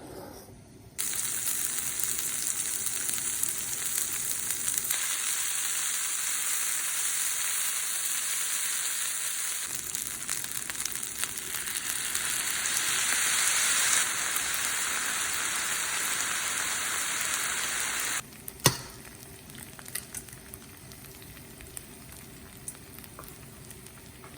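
Food frying in a pan: a loud, steady sizzle that stops abruptly about three quarters of the way through. A single sharp knock follows, then only faint light clicks.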